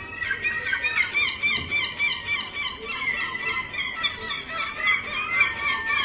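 Emperor penguin colony calling: many overlapping high, chirping calls, several a second, with a steady high tone underneath.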